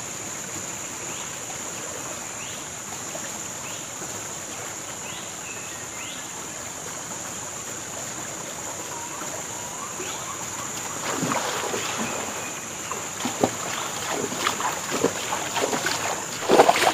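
Tropical forest ambience: insects droning steadily at a high pitch. About two-thirds of the way in, water sloshing and splashing starts and grows louder near the end, as someone moves through the river.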